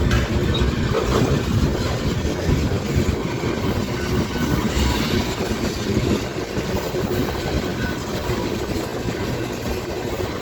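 Manifest freight train rolling past, a steady rumble and clatter of steel wheels on the rails, easing slightly toward the end.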